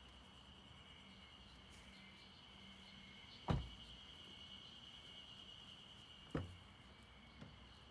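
Steady high insect chirring in the background, broken by two sharp knocks about three seconds apart and a small click near the end.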